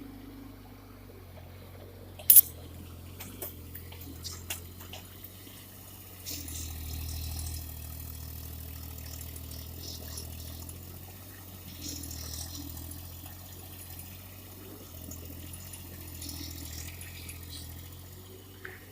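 Kubota mini excavator's diesel engine running steadily while trenching, getting louder about six seconds in. There is one sharp clank about two seconds in, followed by a couple of lighter knocks.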